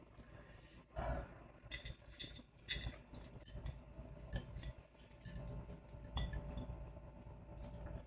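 Eating noodles close to the microphone: chewing with scattered small clicks and light clinks of a utensil against the bowl.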